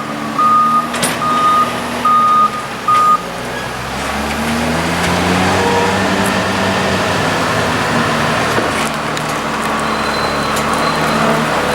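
A farm vehicle's reversing alarm beeps about four times in quick succession, then stops. A heavy diesel engine of the silage machinery runs on, its pitch rising a little about four seconds in and then holding steady.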